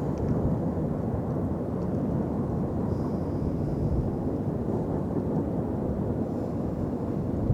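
Steady low rumble of an intermodal freight train running past, with no breaks or distinct impacts.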